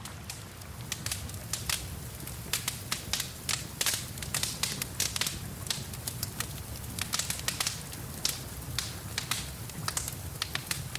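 Wood fire in a fireplace crackling and popping in quick, irregular snaps, beginning about a second in, over a low rumble of the flames and a steady hiss of rain.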